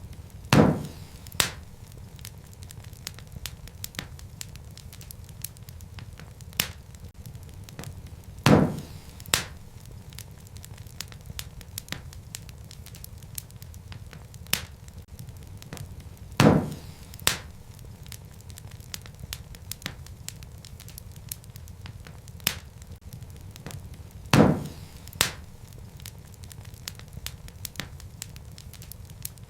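Wood fire burning in a fireplace, with a steady low rumble and a constant scatter of small crackles. About every eight seconds a loud pop comes, followed by a smaller second pop just after it.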